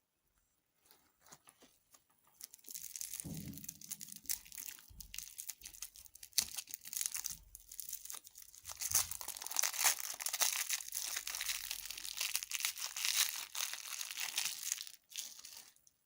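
Plastic food wrapper crinkling and being torn open: a dense crackle of many small clicks that starts a couple of seconds in and stops shortly before the end.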